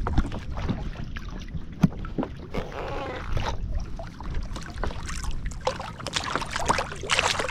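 Water splashing and sloshing around a kayak, with a sharp knock about two seconds in, while a smoothound is put back into the sea over the side.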